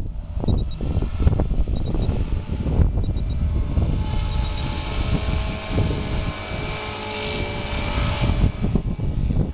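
Electric 450-size RC helicopter (Walkera V450 with BeastX flybarless unit) flying 3D, its rotor and motor whining and swelling loudest about seven to eight seconds in. Gusty wind buffets the microphone throughout.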